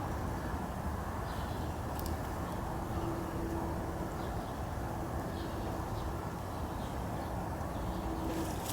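Steady low outdoor noise, with a few faint, short, high calls of small wild birds. A faint steady hum comes in about three seconds in and fades near the end.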